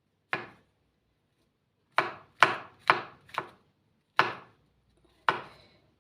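Kitchen knife chopping mushrooms on a cutting board: seven separate chops at an irregular pace, one near the start, then a quick run of four about two seconds in, then two more spaced out toward the end.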